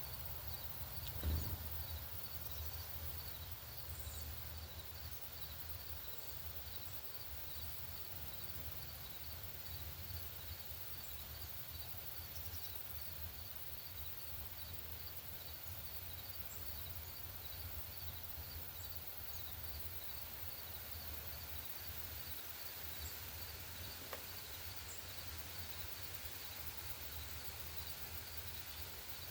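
Outdoor ambience: an insect, likely a cricket, chirping steadily about twice a second, over a low rumble, with a few faint, short, high bird chirps and a soft thump about a second in.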